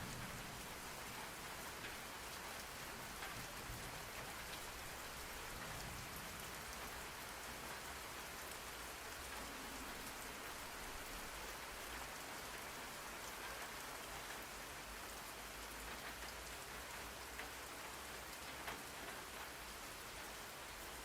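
Steady rain falling, an even hiss with scattered ticks of drops hitting a surface.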